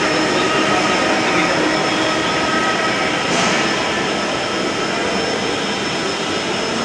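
Dhaka Metro Rail train running: a steady noise with a few faint, even tones held through it.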